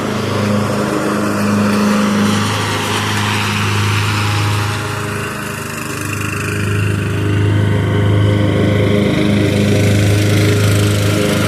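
Craftsman riding lawn mower's engine running loud and steady while mowing, with a slight dip in level around the middle.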